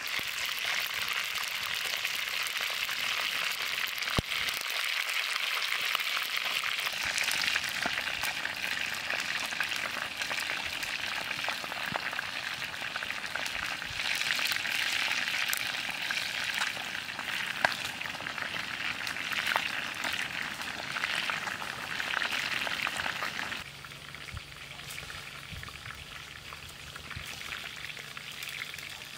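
Chicken thighs frying in hot oil in an iron wok over a wood fire: a steady sizzle full of small crackles and pops. It drops to a quieter sizzle about three-quarters of the way through.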